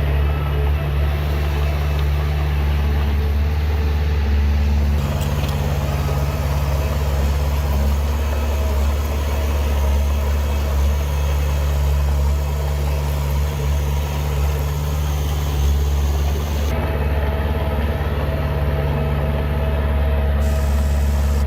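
Heavy diesel engine of earthmoving machinery running steadily, with a slight shift in its note about five seconds in.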